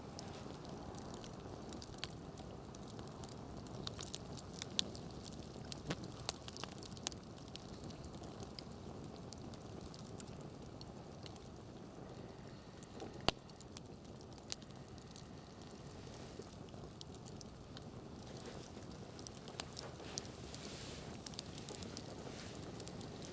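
Wood campfire burning, crackling with irregular sharp pops over a low steady hiss; one pop about halfway through stands out as the loudest.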